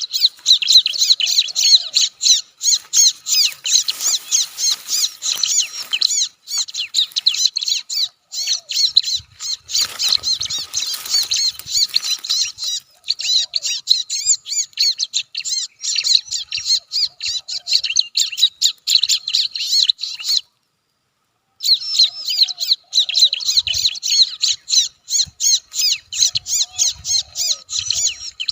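Bar-winged prinia (ciblek) calls: a fast, continuous run of high chirping notes. The chirping cuts out completely for about a second about two-thirds of the way through, then resumes.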